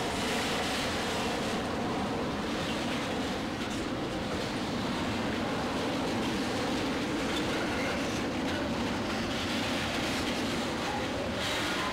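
A train rolling by on the track, with the steady, unbroken noise of its wheels on the rails.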